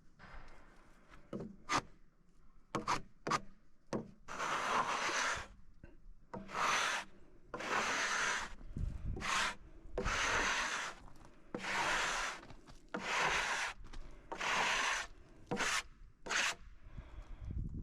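Scraping strokes on wood: a few light knocks, then about nine long rasping strokes of roughly a second each, at a steady pace.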